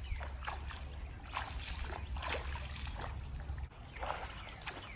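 Feet wading through shallow creek water, a run of uneven splashes and sloshes, over a low rumble of wind on the microphone.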